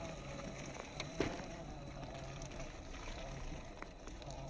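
RC4WD TF2 scale Land Rover Discovery crawler driving, its electric motor and gears giving a steady, slightly wavering whine, with a few sharp clicks and one louder knock about a second in.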